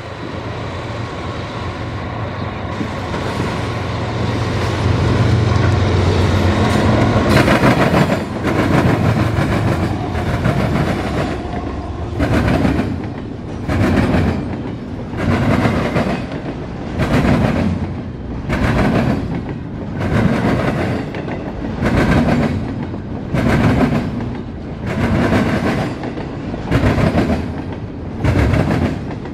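A CSX double-stack intermodal freight train passing close by. The GE diesel locomotives' engines hum as they go by in the first several seconds. Then the loaded well cars roll past with a rhythmic wheel clatter that swells about every second and a half as each car's wheel sets cross the rail joints.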